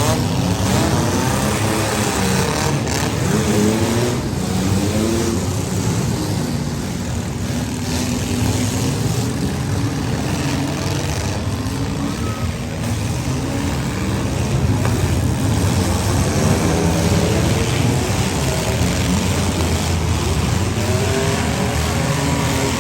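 Several compact demolition-derby cars' engines running and revving at once, their pitches rising and falling.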